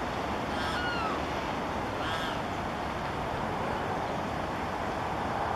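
Steady wind noise buffeting the microphone, with a bird calling twice in the first half.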